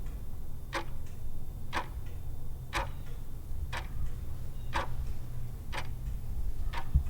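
Clock-tick countdown sound effect, one sharp tick about every second, over a steady low hum. It marks the time allowed to answer a quiz question.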